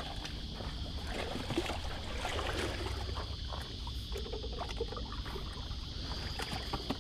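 A small fiberglass rowboat being pushed up onto the shore, with irregular scrapes and knocks of the hull and water moving around it. A steady high buzz runs underneath.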